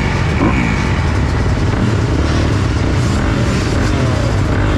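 Motocross bikes idling at the starting gate, the loudest the rider's own 2020 Kawasaki KX250 four-stroke single, with a quick blip of the throttle near the start. Neighbouring bikes run alongside.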